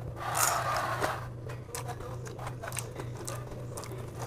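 A person chewing fried glass noodles and a green chilli close to a clip-on microphone: wet mouth clicks and smacks, with a noisier chewing burst in the first second. A steady low hum runs underneath.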